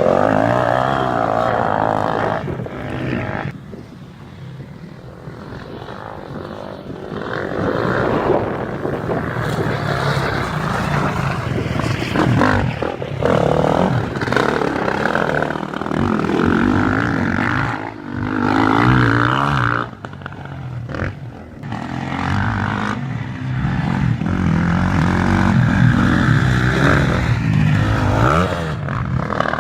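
Motocross motorcycle engines running and revving, the pitch rising and falling as the throttle opens and closes, with a quieter stretch a few seconds in.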